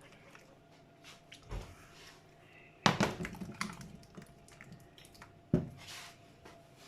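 Thick cheese sauce being worked in a saucepan, with small scrapes and clicks of the utensil and two sharp knocks against the pan, about three seconds and five and a half seconds in. A faint steady hum sits underneath.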